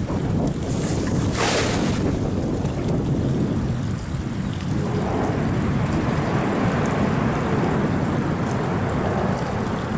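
The boat's 90 hp outboard motor runs steadily under a noisy rumble of wind buffeting the microphone. A short hissing splash comes about a second and a half in.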